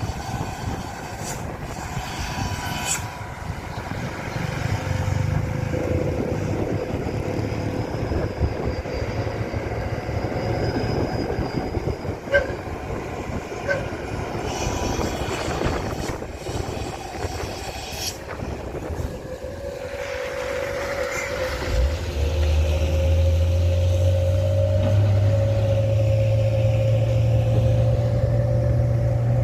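Truck engine running with road rattle and occasional knocks, growing louder and steadier about three-quarters of the way in as it pulls harder.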